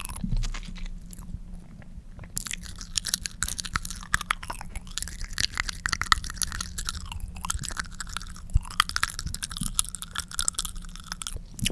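Close-miked wet mouth sounds: a tongue smearing and sliding with saliva, making a dense stream of sticky clicks and smacks. They thin out for a couple of seconds near the start, then run thick and continuous.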